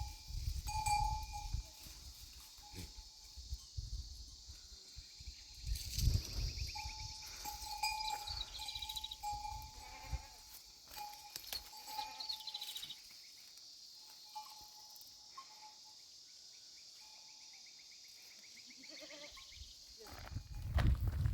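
Sheep bleating now and then, with low rumbling noise through the first half. The sound is quieter over the last several seconds.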